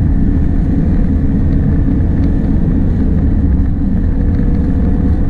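Fiat Ducato van's engine and tyre noise heard from inside the cab while it drives at road speed, a steady low rumble with no changes.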